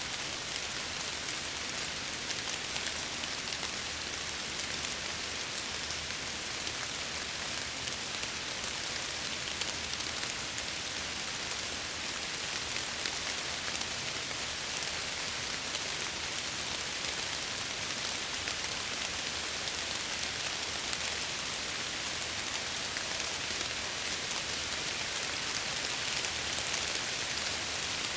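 Steady rain pattering against window glass, an even hiss of many small drop impacts.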